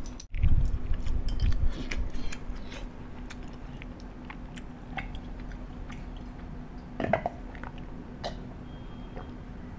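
Close-miked chewing and crunching of a mouthful of food for the first few seconds. Then fainter mouth noises and scattered soft clicks while sipping cola from a glass, with one short louder noise about seven seconds in.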